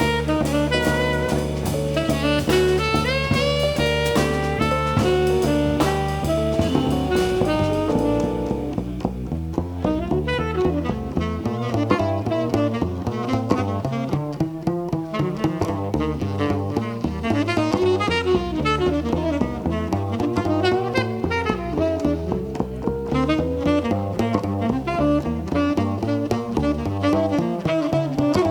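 Live jazz combo playing: saxophone lead over double bass and drum kit.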